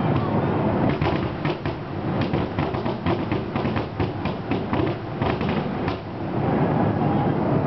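Aerial fireworks going off in quick succession: many sharp bangs and crackles over a continuous low rumble of booms.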